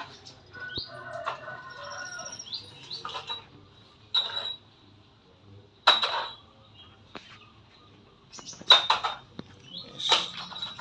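Small cage birds chirping in short, scattered calls, with a few brief sharp bursts that may be wing flutters.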